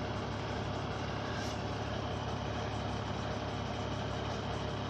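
Engine of a large emergency vehicle idling at a standstill: a steady, even low hum.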